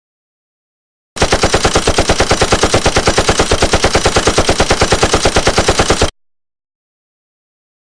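Machine gun sound effect: a rapid burst of automatic fire, about eight or nine shots a second, that starts about a second in, lasts about five seconds and cuts off suddenly.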